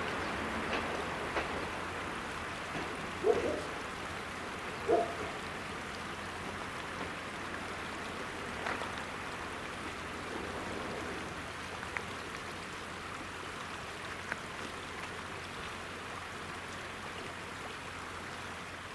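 A passing train's steady rushing, fading slowly as it moves away from the level crossing, with two brief knocks about three and five seconds in.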